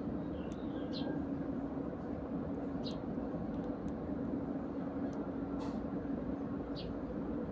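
A steady low mechanical hum, like a running engine or traffic, with a few short chirps of Eurasian tree sparrows about one, three and seven seconds in.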